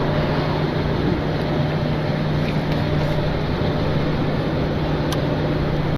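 A steady mechanical drone: a motor running evenly, with a constant low hum under a rushing noise.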